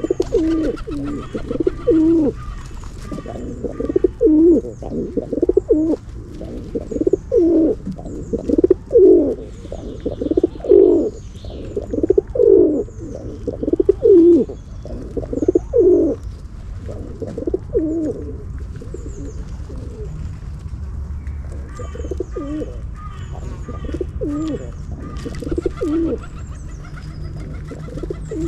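Pigeons cooing over and over, about one coo a second, loudest through the middle stretch, with small birds chirping high above them.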